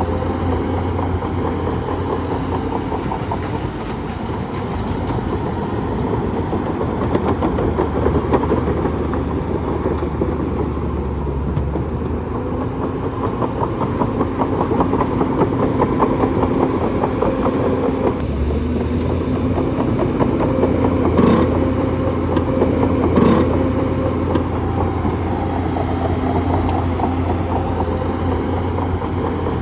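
Bulldozer working: its diesel engine runs steadily under a continuous metallic clatter, and two sharp clanks come about two seconds apart roughly two-thirds of the way through.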